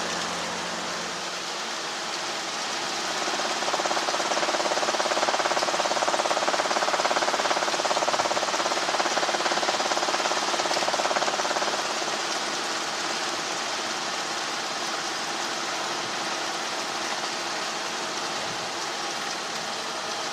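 Piston helicopter's engine and rotor running steadily, heard through the cockpit intercom, growing louder with a fast pulsing from about three seconds in, then easing back near the twelve-second mark.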